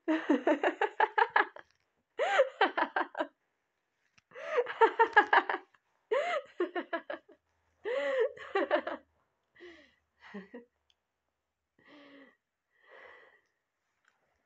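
A person laughing in several loud bursts of quick pulsed 'ha' sounds, dying down in the second half into a few soft, breathy laughs.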